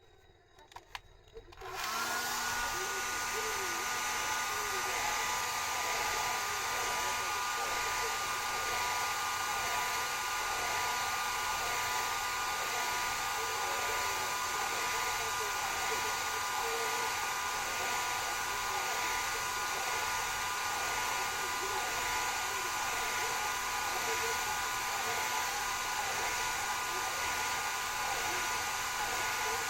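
Hair dryer switched on about two seconds in, then blowing steadily with a constant whine over its rushing air.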